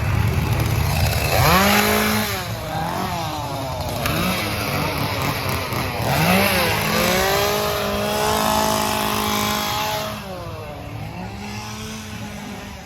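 A small engine revs up several times, its pitch rising and then holding, about a second and a half, six and ten seconds in, over a steady rumble. It fades out at the end.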